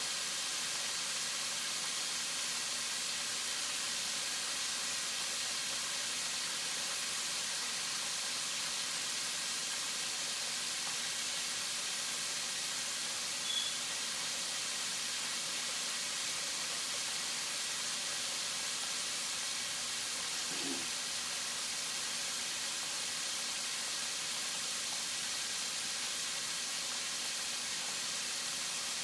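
Chicken wings frying in oil with a steady sizzle and one small pop about halfway through; the pieces are still cooking on their first side, not yet ready to turn.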